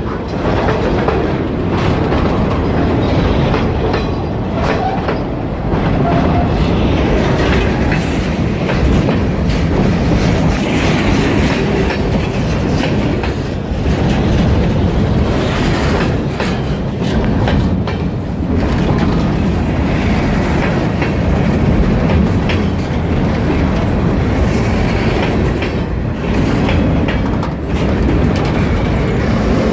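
Freight train rolling past, its wheels clattering steadily over the rail joints.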